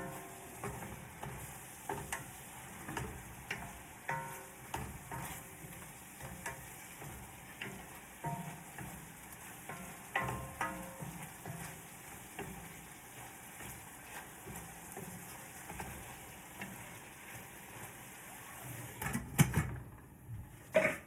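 Food sizzling in a hot pan while being stirred, with repeated clicks, scrapes and brief metallic rings from the utensil against the pan. The sizzle stops shortly before the end, with two loud knocks.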